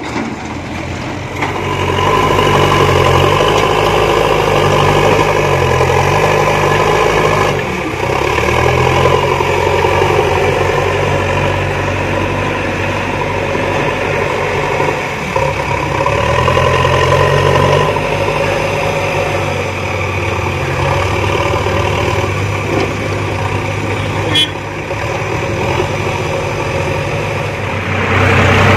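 JCB backhoe loader's diesel engine running, its speed and loudness rising and falling several times as it works, with a short click near the end.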